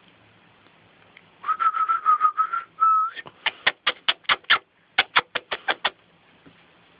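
A person whistles one held note for about two seconds, then makes two quick runs of sharp clicking sounds, about six a second, calling a cat.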